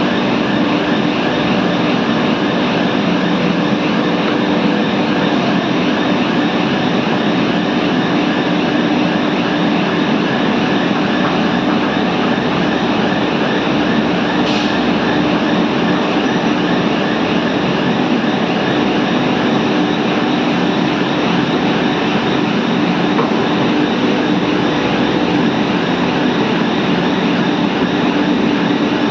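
Steady, loud industrial din of scrap metal being fed by a charger machine into a melting furnace: continuous rattling and rumbling over a constant hum.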